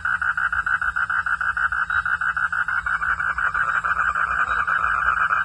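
Frogs calling without a break, a fast even pulsing at about eight pulses a second.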